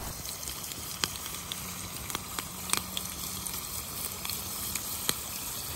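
Small potatoes frying in olive oil in a camp mess-kit pan over an open wood fire: a steady sizzle with a few sharp pops and crackles.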